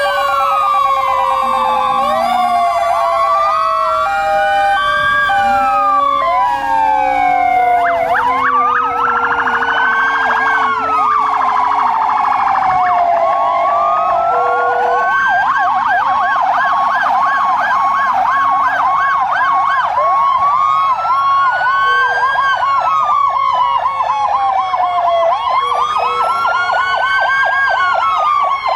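Several fire truck sirens sounding at once: electronic wails rising and falling every few seconds, switching to a fast yelp in stretches, over a long, slowly falling siren tone and a steady pulsing tone.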